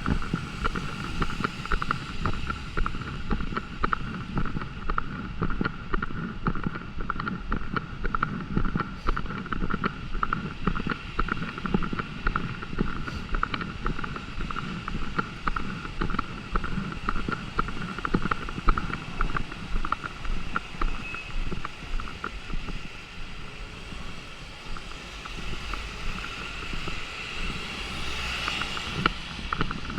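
Wind buffeting the microphone over a steady wash of wet outdoor noise in rain, with a brighter hiss swelling near the end.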